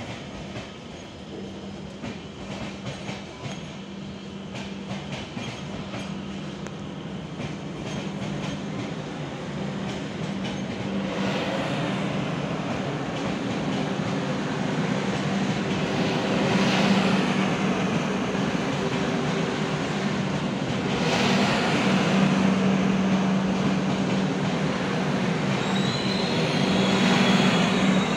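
Express train running on the line, growing louder as it comes closer, with a steady low hum. Wheels click over rail joints at first, then come waves of louder, higher wheel noise from about a third of the way in.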